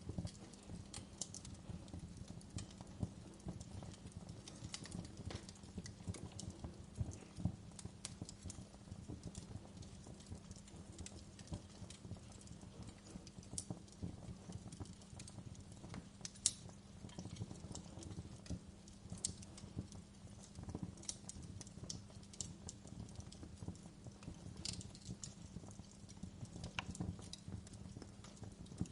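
Wood fire burning in a fireplace: a steady low rumble of the flames with irregular small crackles and a few sharper pops, the loudest about 7 and 16 seconds in.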